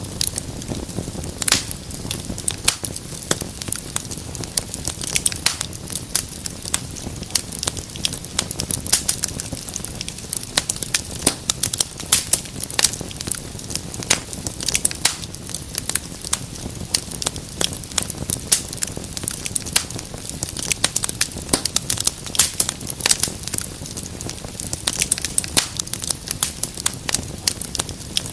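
Wood fire burning in a fireplace, crackling with many sharp irregular pops and snaps over a low steady rumble of the flames.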